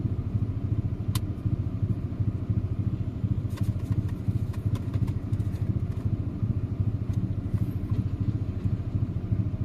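A steady, even engine idle: a low, fast-pulsing rumble. A few light clicks and clatters sound over it, one about a second in and several between three and a half and five seconds in.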